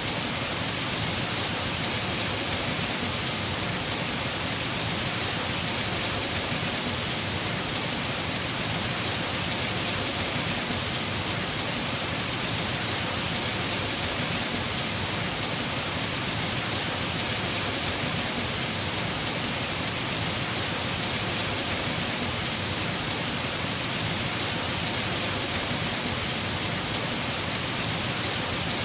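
Heavy rain falling steadily on a house roof, a dense, even hiss of drops with no change in strength.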